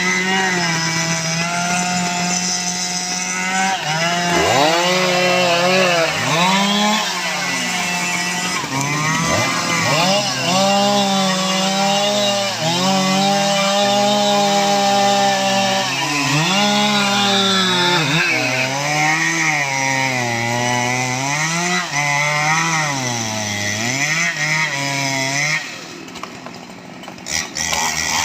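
STIHL MS 881 two-stroke chainsaw cutting teak at high revs, its engine pitch dipping under load and recovering again and again. About 26 seconds in, the throttle drops off briefly, then the saw revs back up near the end.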